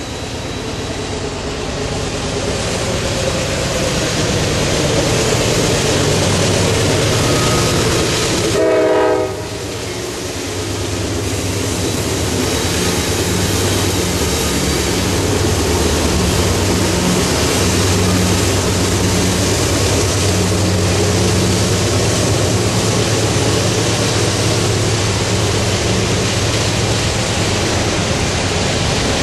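CSX freight train's diesel locomotives passing close with their engines running in a steady drone, and one short horn blast about nine seconds in. By the end, the freight cars are rolling past.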